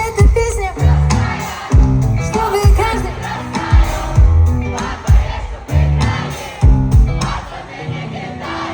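Live pop-rock band playing at concert volume with a heavy, regular kick-drum beat, and a crowd singing along.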